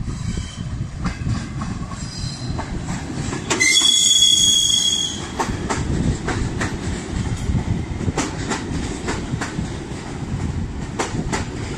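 Electric commuter train running past below: a steady rumble with its wheels clicking over rail joints and switches. About four seconds in, a loud, high squeal from the wheels lasts about a second and a half.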